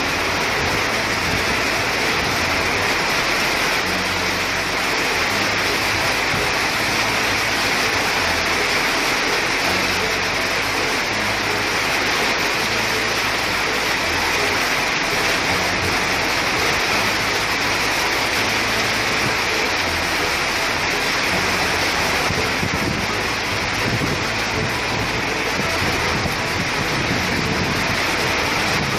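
Heavy rain pouring steadily onto a street and grass in a downpour.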